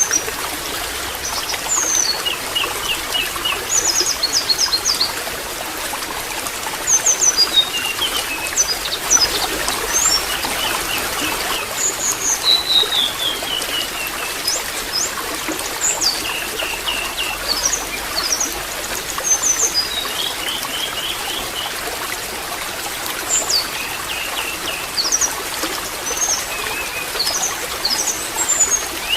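Water trickling steadily, with small birds chirping and twittering in quick short phrases throughout.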